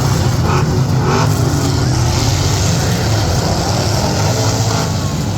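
Demolition derby truck engines running loud, revving up now and then.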